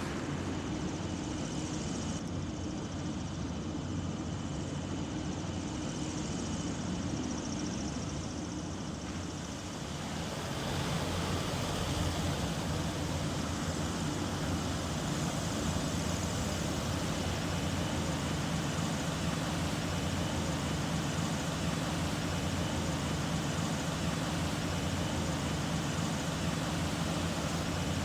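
A steady engine drone, growing louder about ten seconds in and then holding level.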